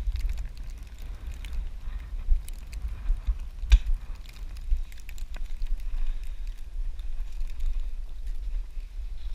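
Low rumble of a car driving on a snowy road, with scattered clicks and knocks and one sharper knock about four seconds in.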